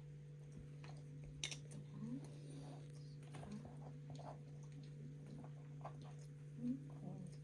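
Quiet room tone with a steady low hum, a couple of soft clicks about a second and a half in, and a few faint brief murmurs.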